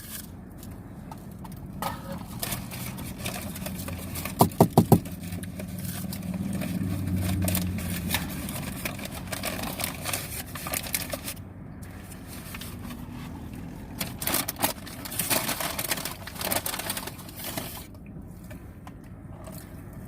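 Rustling and crinkling of fast-food packaging with scattered small clicks and knocks while eating, including a quick run of four sharp knocks about four and a half seconds in, over a low steady hum.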